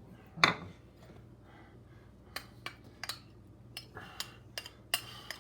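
Utensils knocking and clinking against a salad bowl as the salad is readied for mixing: scattered sharp clicks, one louder knock about half a second in, and a quicker run of ringing clinks near the end.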